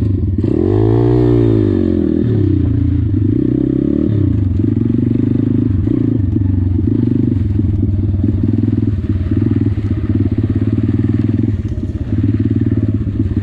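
Chinese pit bike's engine revving up and back down about a second in, then running on under throttle as the bike rides through mud, the revs rising and falling.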